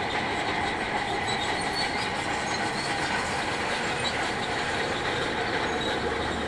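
Crawler bulldozer working: its diesel engine runs steadily under the continuous metallic clatter and squeal of its steel tracks.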